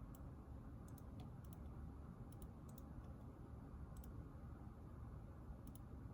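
Scattered light clicks, a few at a time, like keys or buttons being tapped at a desk. They sit over a faint, steady low hum of room noise.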